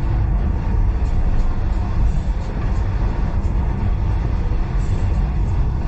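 Steady low rumble of a moving passenger train's carriage running on the rails, heard from inside the carriage, with faint scattered clicks over the top.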